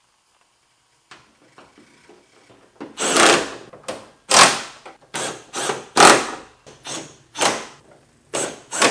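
Power drill-driver running in a series of about nine short bursts, driving screws back in, with a few faint clicks before the first burst.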